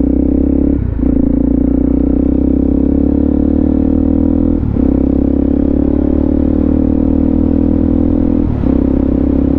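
Suzuki DRZ400SM's single-cylinder four-stroke engine running steadily under way, with three brief dips in its note about four seconds apart.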